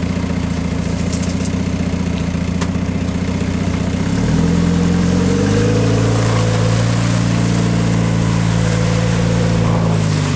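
Off-road truck engine idling, then brought up to a higher, steady speed about four seconds in and held there, easing off slightly near the end.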